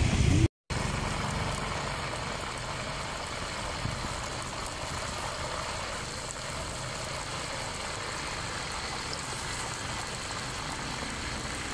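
A steady, even noise of the kind an engine or passing traffic makes, starting just after a brief silent gap about half a second in.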